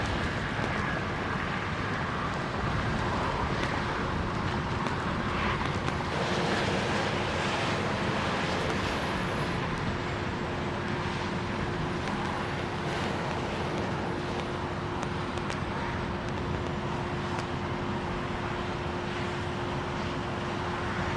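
Steady road-vehicle and traffic noise, with a steady engine hum that sets in about six seconds in and holds.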